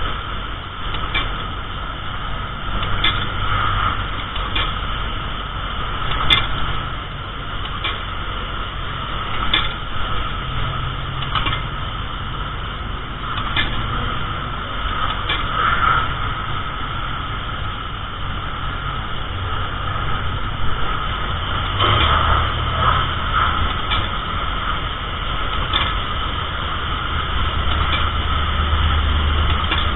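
Self-serve car wash high-pressure wand spraying steadily, with the pump's hum underneath and faint ticks every second or two.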